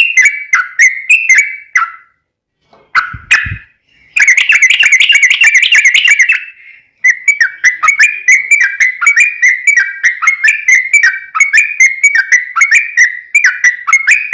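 Yellow-vented bulbul (trucukan) singing a long, fast run of repeated bubbly chirping notes. The run breaks off after about two seconds, with a short burst and a low thud around three seconds in. A rapid, dense trill follows, then after a brief gap the repeated notes resume.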